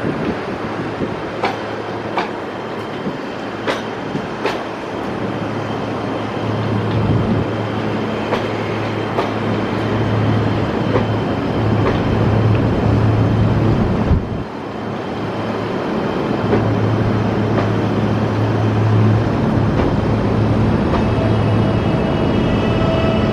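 EG2Tv Ivolga 2.0 electric multiple unit rolling into a station, its wheels clicking over rail joints and points, with a steady low hum under the noise of the running train.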